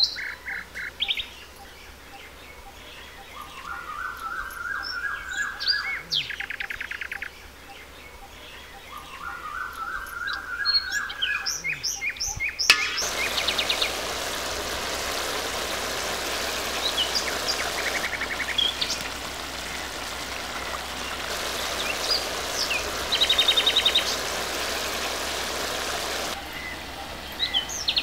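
Wild birds calling: twice a run of notes climbing steadily in pitch, along with scattered chirps and short fast trills. About halfway through, a steady hiss sets in beneath the birds and stops shortly before the end.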